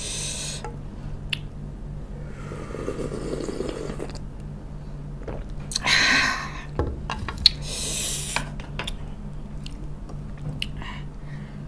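Close-miked mouth and eating sounds as a person chews the last mouthfuls of asinan (pickled vegetable salad): scattered wet clicks and smacks, with two louder breathy bursts about six and eight seconds in. A low steady hum runs underneath.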